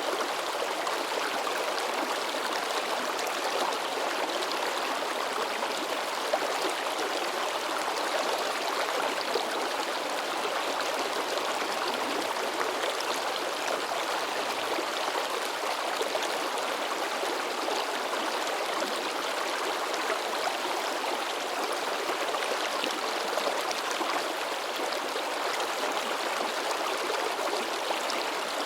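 A rocky mountain stream babbling and splashing in a steady, unbroken rush of water.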